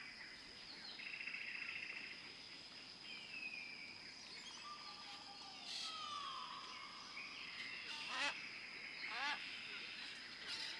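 Faint wild bird calls: a short trill about a second in, several falling whistles, and quick sharp chirps near the end, over a steady high-pitched tone.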